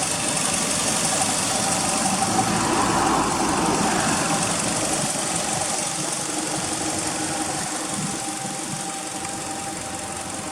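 Toyota Altezza RS200's 3S-GE four-cylinder engine running at idle through an aftermarket exhaust manifold and 5ZIGEN muffler, swelling slightly about three seconds in and then settling.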